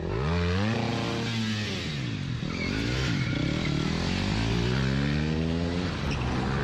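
Motorcycle engine revving, its pitch climbing and dropping several times as the throttle is worked.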